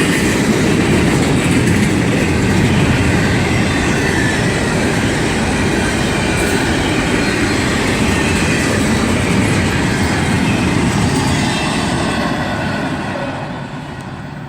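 Long freight train rolling past close by, mostly empty cars rumbling and rattling on the rails with a steady clatter of wheels. The noise fades over the last couple of seconds.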